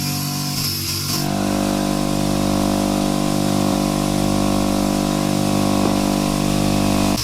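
A power tool's motor running steadily with an even, pitched hum, taking over from a higher-pitched tool noise about a second in.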